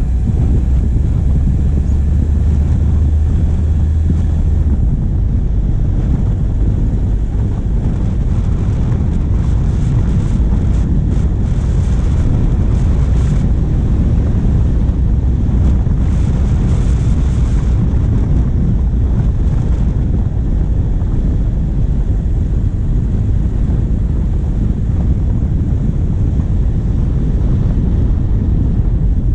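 Diesel vehicle engine running with wind buffeting the microphone on the bonnet, a heavy low rumble throughout. A steady low engine hum stands out for the first five seconds, then fades into the rumble.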